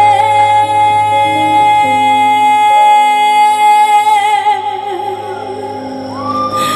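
A female singer holds one long note with vibrato at the end of a sung line, over a trot backing track; the note fades out about five seconds in, leaving the backing music.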